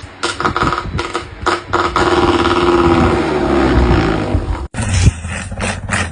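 A cat's loud, drawn-out yowl that slowly falls in pitch and cuts off abruptly, after a few short knocks and brief cries.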